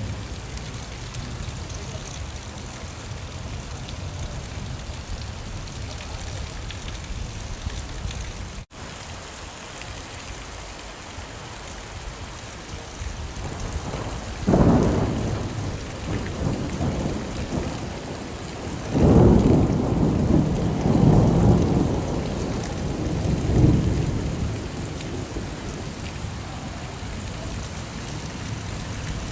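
Steady rain falling, with a rumble of thunder about halfway through and a longer, louder rolling peal a few seconds later. The sound drops out for a split second about nine seconds in.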